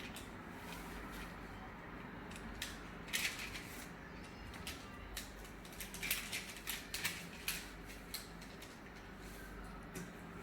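A sheet of paper being folded and creased by hand: intermittent crisp rustles and crackles, in a cluster about three seconds in and again from about six to seven and a half seconds.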